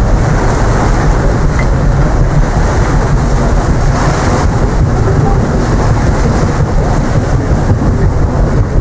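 Wind buffeting the microphone: a loud, steady low rumble with hiss and no breaks.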